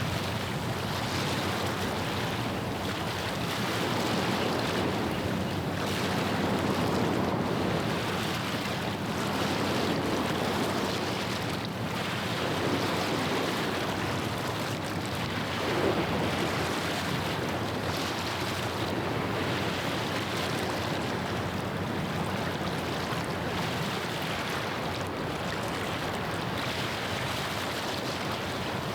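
Small estuary waves washing and lapping at the shore, in slow swells, with wind on the microphone and the steady low drone of a passing ship's engine underneath.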